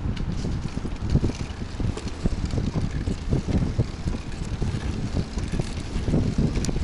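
Wind buffeting the microphone of a rider on a moving bicycle, a gusty low rumble with scattered small knocks.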